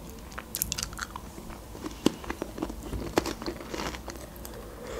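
Mouth chewing and crunching a hard muesli biscuit: irregular crisp crunches and clicks.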